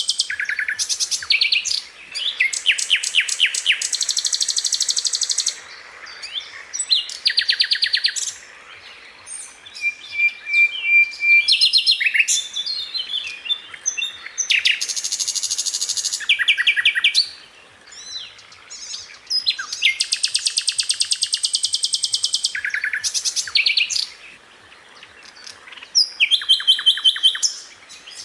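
Sikatan londo flycatcher singing: high phrases of very fast repeated notes, rolling trills and sharp bursts, each a second or a few seconds long, with short pauses between them.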